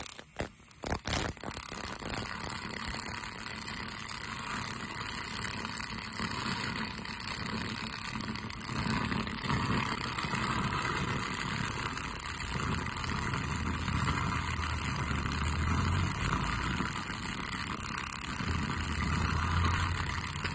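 Water-cooled pulse laser cleaning machine running and ablating paint from a car door: a steady hiss with a low machine hum that swells now and then. It begins after a few short clicks about a second in.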